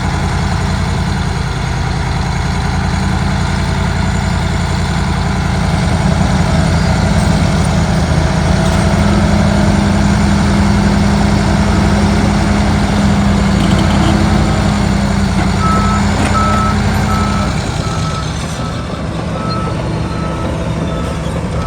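Heavy diesel earthmoving machinery running hard, the engine working louder under load for a stretch in the middle. Near the end a reversing alarm starts beeping steadily, about two beeps a second.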